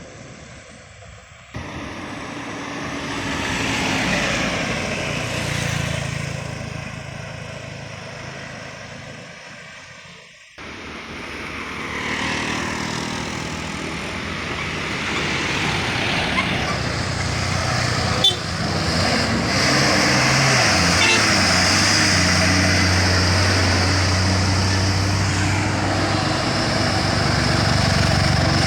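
Heavy vehicles passing with their engines running hard. The sound cuts off abruptly twice, then builds to a loud, steady run near the end.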